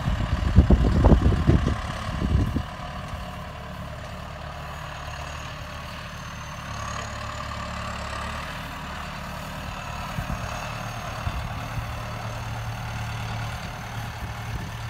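Tractor engine running steadily, with loud irregular low rumbles over it in the first two or three seconds.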